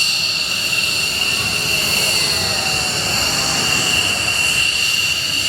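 F-16 fighter jet's turbofan engine running at low power while taxiing, a loud, steady high-pitched whine over a rushing noise.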